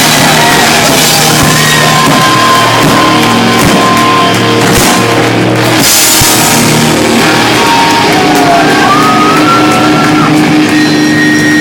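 Live rock band playing loud: drum kit and distorted electric guitars in a large room, the recording very hot and dense. Near the end steady sustained tones ring on.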